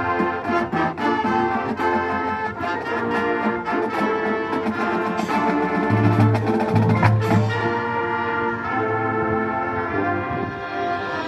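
High school marching band playing live: brass section with trumpets and trombones over drum hits, then moving into held brass chords with little percussion about eight seconds in.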